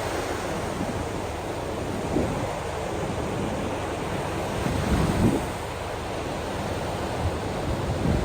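Ocean waves washing on the shore, a steady rushing wash with wind buffeting the microphone; a few low surges come through, about two, five and eight seconds in.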